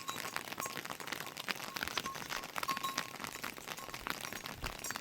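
Rain falling, with irregular sharp drips and taps on a hard surface over a steady hiss.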